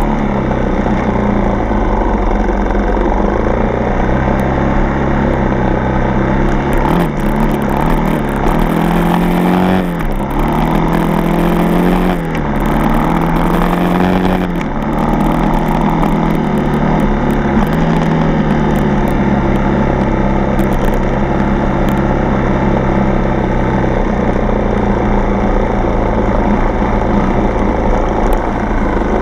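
Four-stroke single-cylinder dirt bike engine running under way, the revs rising and falling several times in the middle as the throttle is worked, then holding steadier near the end.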